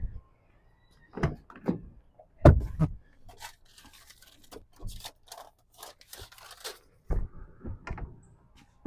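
Scattered knocks, clicks and scraping from hands and tools working at a car battery's terminals, with the loudest knock about two and a half seconds in.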